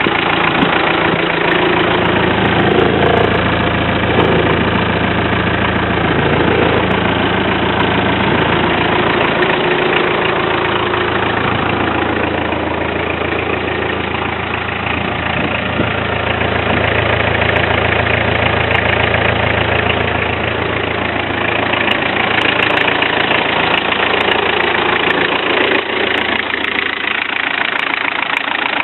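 Range Rover Classic's VM 2.4 four-cylinder turbodiesel idling steadily, still cold after a cold start.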